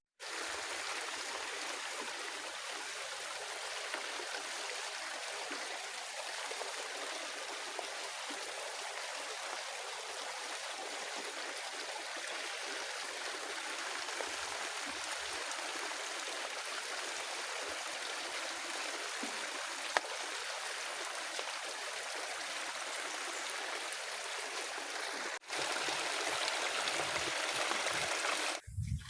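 Steady rushing of water, an even hiss with little low end, growing a little louder about 25 seconds in, with a sharp click there and a fainter one around 20 seconds.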